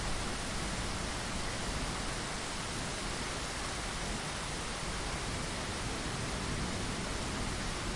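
Steady, even rain noise, rain falling against a window pane.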